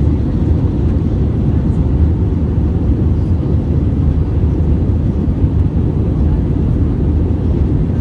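Steady low rumble inside an Airbus A320's cabin during descent: engine and airflow noise.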